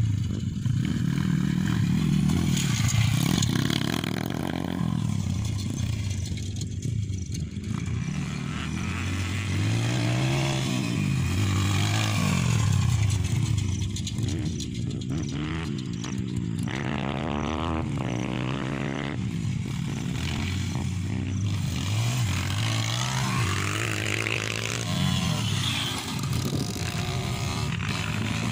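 Motocross bikes riding the track, their engines revving up and down repeatedly, with several engines overlapping.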